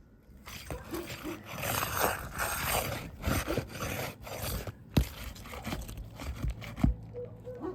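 Asphalt shingle scraping and crackling as it is worked loose from the roof deck, with a few sharp knocks, the loudest about five and seven seconds in.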